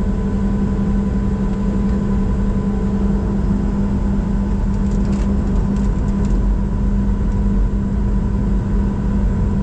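Steady drone inside the cabin of a Boeing 737-700 waiting on the ground with its engines at idle: a constant low hum with a few thin steady whine tones above it. A few faint ticks come around the middle.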